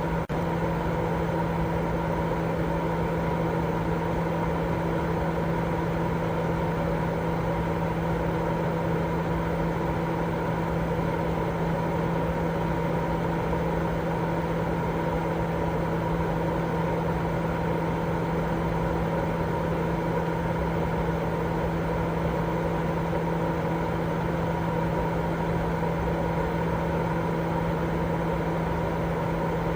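Steady, unbroken baby-sleep white noise: an even rushing hiss, fuller in the low and middle range than the top, with a constant low hum running through it.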